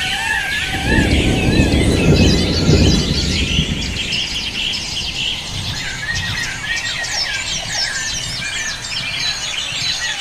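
Birds chirping and calling in a dense, overlapping chorus of quick high notes, with a repeated wavering whistle in the first second or so. A low rumbling noise comes in about one second in and fades by about four seconds.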